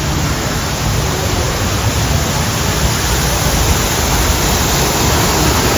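Steady rushing, splashing water of a waterfall close by, growing slightly louder near the end.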